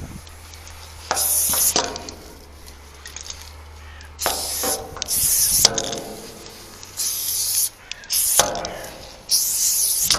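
Aerosol spray-paint can spraying in short bursts, about five hissing sprays of a second or less each, spaced a second or two apart.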